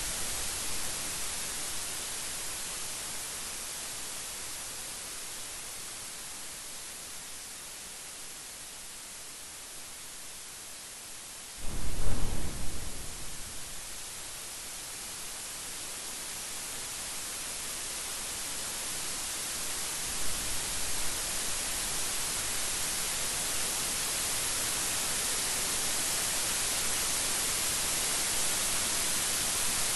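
Steady heavy rain hissing throughout. A little before the middle a sudden thunderclap breaks in and rumbles away over about two seconds, and a fainter rumble of thunder comes a few seconds later.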